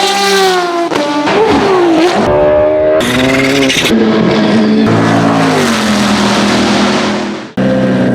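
Race and rally car engines idling and being blipped, their pitch rising and falling, in several short clips joined by abrupt cuts, one shortly before the end.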